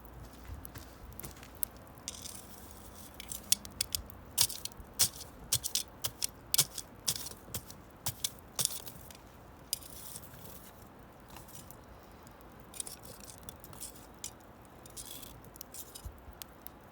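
Wood fire crackling, with irregular sharp pops and snaps, thickest in the first half and again near the end.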